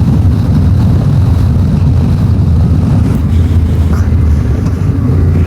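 Yamaha Ténéré 700 parallel-twin running steadily while being ridden, its engine drone mixed with wind rumble on the rider's microphone.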